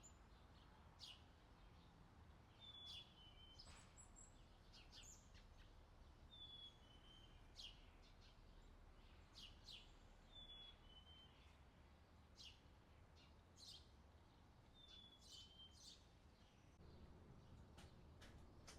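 Faint outdoor summer ambience of birds chirping. One bird repeats a short two-note falling call every few seconds among quicker high chirps, over a low background hush.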